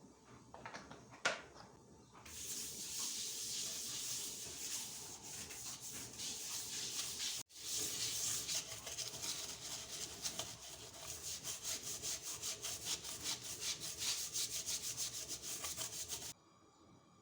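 Quick, scratchy back-and-forth scrubbing of a hard kitchen surface, starting about two seconds in. It breaks off for an instant about halfway and stops abruptly near the end.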